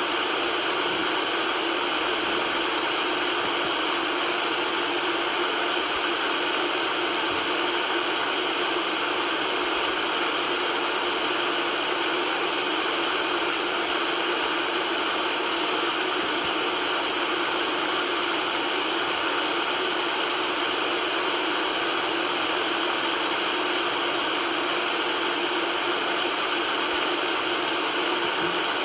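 Continuous white noise: an even, steady hiss with little bass, unchanging in level.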